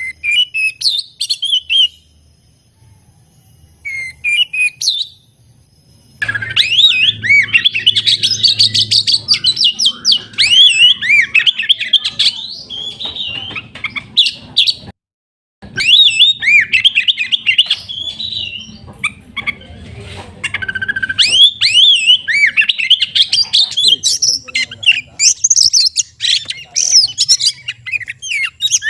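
Oriental magpie-robin (kacer) singing loudly: a fast, varied run of whistles and chirps. Two short phrases come first, then continuous song from about six seconds in, broken once by a brief silent gap partway through.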